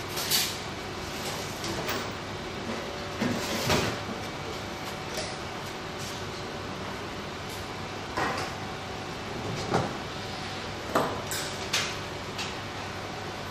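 Small parts being handled during a semiconductor cooler plate fit: about ten scattered short clicks and knocks, several in a quick cluster near the end, over a steady faint hum.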